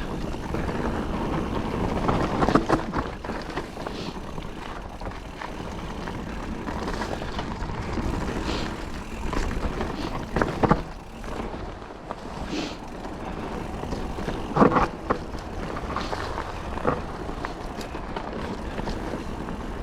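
Calibre Triple B mountain bike riding a dry, loose trail: constant wind rush and tyre noise on a GoPro. Several sharp knocks and clatters from the bike come through it, the loudest about three-quarters of the way through.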